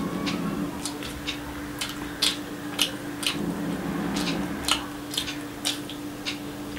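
Close-miked wet chewing and lip-smacking of a mouthful of fried rice, heard as irregular sharp clicks a few times a second, with fingers squishing rice on a plate. A steady low hum runs underneath.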